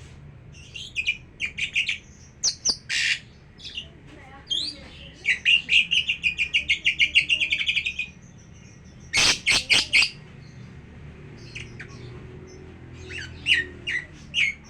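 Lovebird chirping in short, sharp bursts: a fast, even run of chirps, about seven a second for some three seconds midway, then a few loud calls, with scattered chirps before and after.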